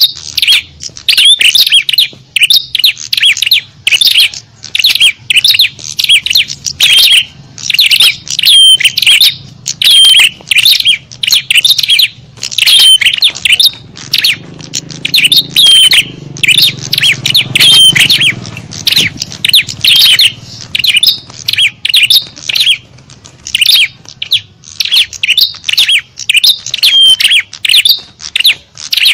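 Small songbirds chirping and chattering without pause, many short rapid calls overlapping: a lure recording used to draw in small birds.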